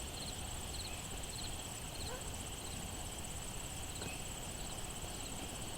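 Insects calling steadily: a continuous high, pulsing trill, with a second insect giving short chirps that repeat about every half second and then come more irregularly. A low rumble runs underneath.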